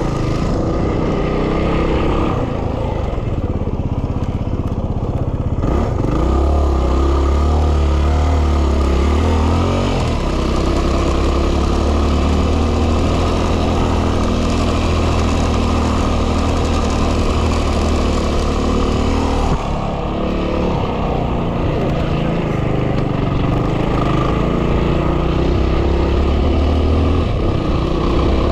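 2010 Yamaha WR250R's 250 cc single-cylinder engine running on the move, its pitch rising and falling with throttle and gear changes, under heavy wind buffeting on the microphone.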